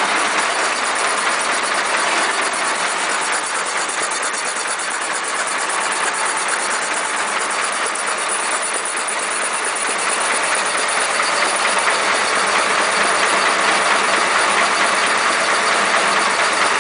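Air compressor's Rover 2.25-litre diesel engine idling slowly at a few hundred rpm, a steady even chug chug chug as it cools down after hours of work.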